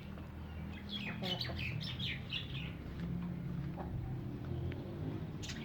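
Small birds chirping: a quick run of about seven short descending chirps lasting under two seconds, over a steady low hum.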